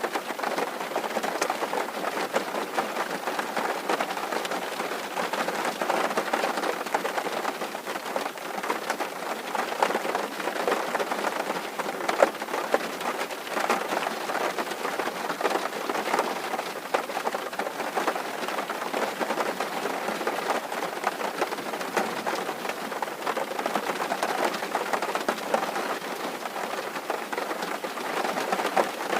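Steady rain falling on a tin roof: a dense, even patter of drops, with an occasional louder drop.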